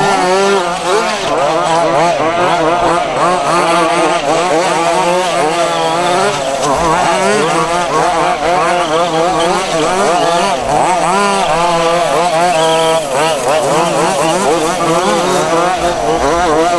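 Several 1:5 scale RC off-road buggies' small two-stroke petrol engines racing together, each revving up and dropping back over and over, so their pitches overlap and weave.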